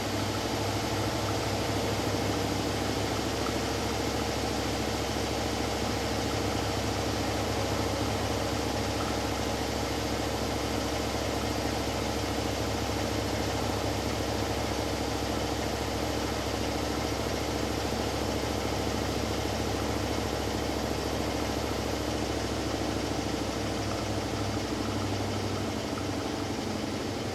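Hoover Dynamic Next washing machine in an interim spin of its Cotton 60 programme: the drum and motor run with a steady hum and whir. The low hum shifts slightly near the end.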